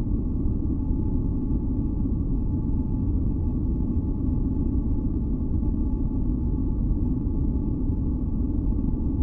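Steady, deep rumbling masking noise, weighted to the low end rather than a bright hiss, with faint steady hum tones sitting above it and no change throughout.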